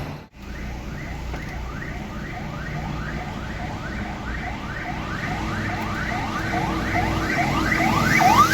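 Emergency vehicle siren in a fast yelp, about three rising whoops a second, growing louder as it approaches, over a low vehicle rumble.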